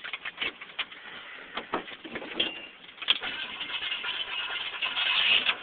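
Keys clicking in the ignition, then about three seconds in the 1972 Chevy pickup's 350 V8 is started and catches, running and growing louder near the end.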